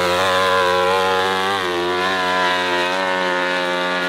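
Motorcycle engine held at high revs, its pitch wavering; it dips briefly about a second and a half in, then climbs again.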